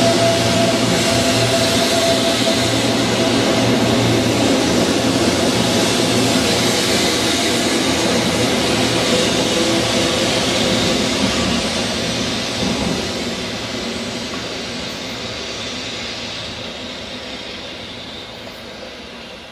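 0 series Shinkansen train accelerating out of the station and running past: a loud rush of wheels and traction motors with a steady whine in the first few seconds, fading away over the second half as the train leaves.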